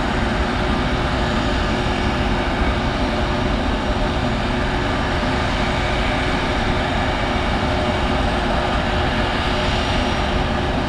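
Boeing 757 jet airliner's engines running steadily, a constant rush of noise with faint steady whining tones and no spool-up.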